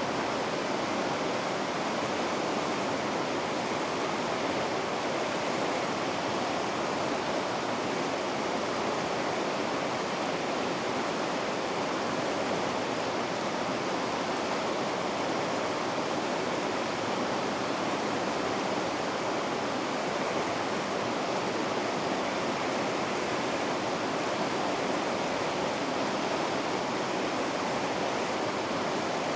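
Rushing water of river rapids, a steady, unchanging roar of white water.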